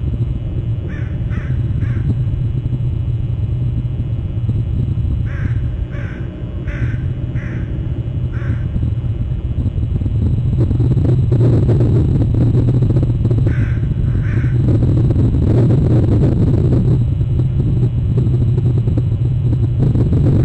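A crow cawing in three runs of three to five short caws. Under it a steady low rumble that grows louder about halfway through.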